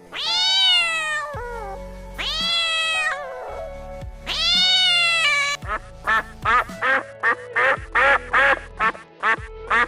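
A cat meowing: three long meows that rise and fall in pitch, then a quick run of short calls about two a second, with background music.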